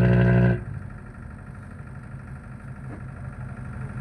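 A loud, steady droning tone stops abruptly about half a second in, leaving a boat engine idling low and steady.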